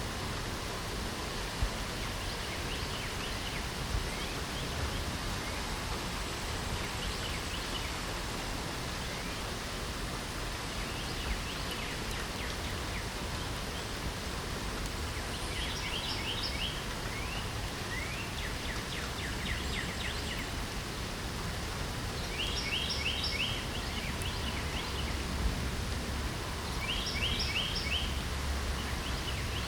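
Steady light rain falling, with songbirds chirping over it. A bird gives a quick burst of rapid chirps three times in the second half.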